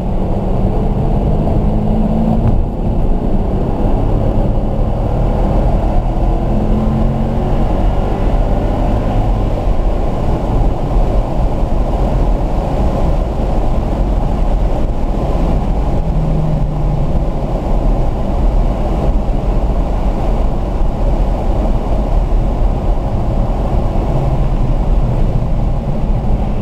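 Car engine heard from inside the cabin, accelerating hard out of a corner and up a straight through the gears, with a brief dip in the note about two and a half seconds in. Heavy wind and road noise lie under it, and it slows again in the second half.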